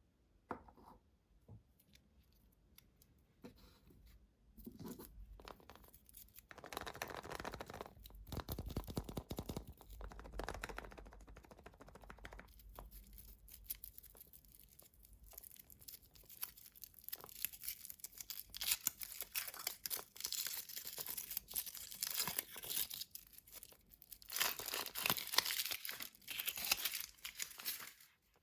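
Surprise egg's wrapper being torn open and crinkled by hand: irregular rustling, crackling and tearing that gets busier and louder in the second half and stops abruptly near the end.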